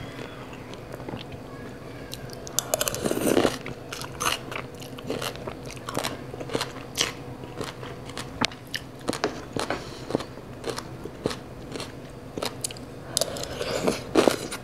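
Close-miked chewing of crunchy shredded green papaya salad: a steady run of crisp crunches, with louder bunches about three seconds in and again near the end.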